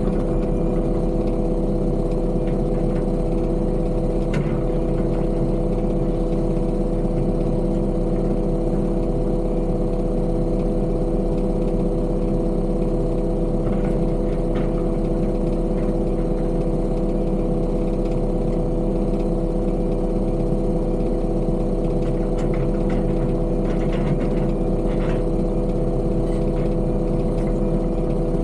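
Heavy construction machine's diesel engine running steadily at a constant speed, with a few faint knocks and rattles.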